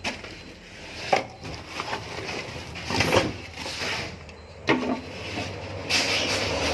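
Wooden boards being handled, knocking and scraping several separate times. A steady rushing noise starts near the end.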